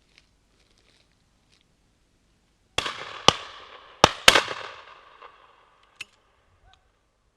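Shotguns firing at driven pheasants: four loud shots in two quick pairs, each echoing away, then a fainter single shot a couple of seconds later.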